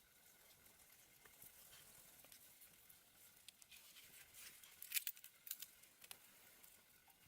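Faint campfire crackling: scattered sharp pops and ticks, with a short cluster of louder pops about two-thirds of the way through.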